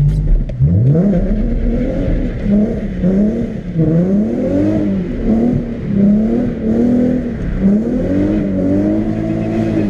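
Nissan 370Z's V6 engine revving hard, its pitch climbing sharply just under a second in, then rising and falling again and again, about once a second.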